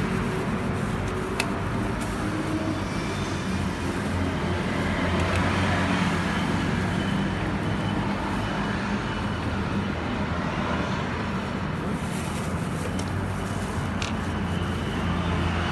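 A motor vehicle engine running steadily at an even speed, with a couple of sharp clicks.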